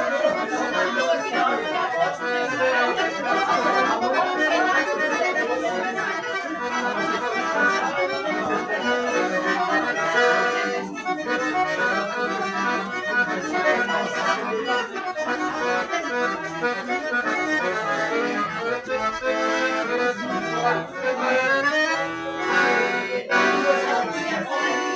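Accordion playing traditional dance music continuously, with a steady beat.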